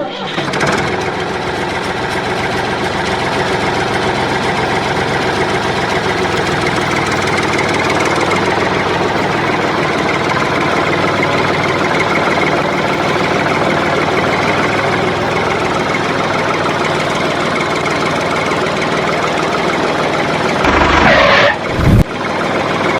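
Tractor engine running steadily under load, with a falling sweep about a second before the end.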